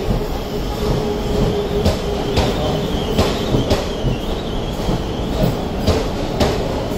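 Indian Railways passenger coaches rolling past as the train slows into the station. The wheels knock over the rail joints in an uneven clickety-clack over a steady rumble, with a thin squeal from the wheels and brakes.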